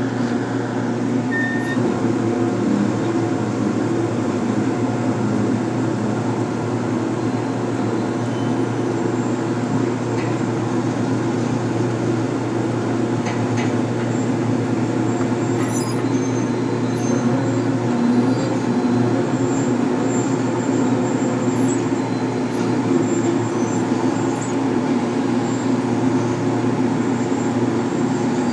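Heavy diesel machinery running steadily, a constant engine hum with a few faint knocks over it.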